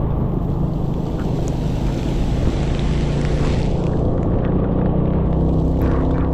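Scooter engine running steadily under way, with wind rushing over the microphone; a rushing hiss swells about three seconds in.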